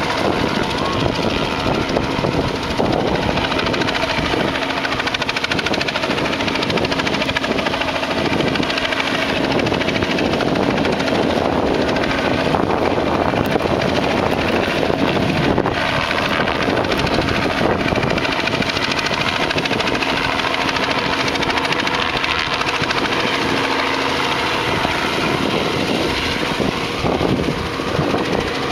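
Helicopter rotor and engine running steadily at close range, a loud continuous drone with a steady hum.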